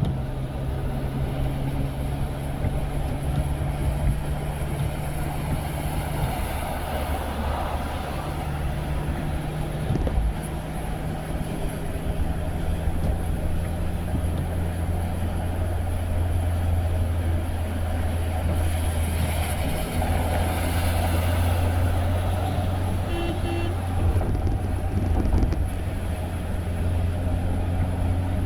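A car driving, heard from inside the cabin: a steady low engine hum whose pitch shifts now and then, over continuous road and tyre noise. There is a brief beep near the end.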